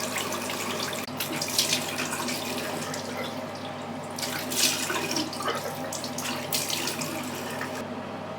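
Tap water running into a bathroom sink, with splashing three times as water is scooped onto the face to rinse off cleansing oil. The tap is turned off near the end.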